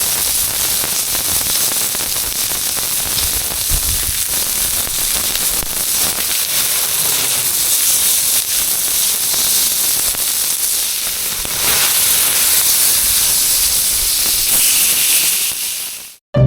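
Cooking over a wood fire in a compact fire stand: a steady hiss with scattered crackles, cutting off suddenly near the end.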